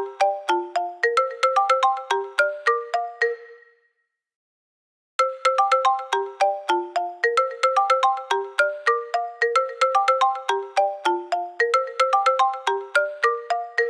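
iPhone ringtone playing: a quick melodic run of short, bright, fast-fading notes, about five a second. It breaks off about four seconds in and starts up again a second or so later.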